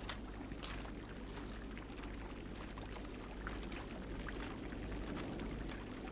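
Faint birds chirping, with short rising-and-falling calls every second or two, over a steady low hum and hiss.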